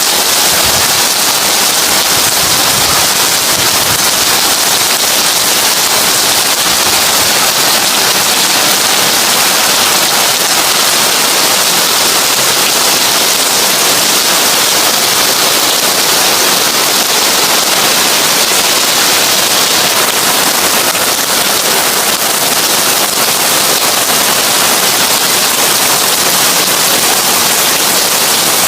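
Heavy rain drumming steadily on a tin roof, a dense, even hiss of countless drops with no let-up.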